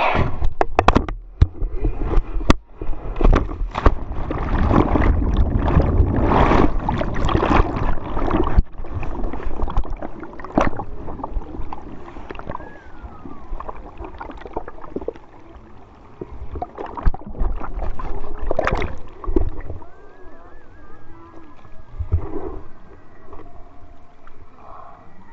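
Water splashing and gurgling close to the microphone, loud and churning for the first ten seconds or so, then settling into quieter sloshing.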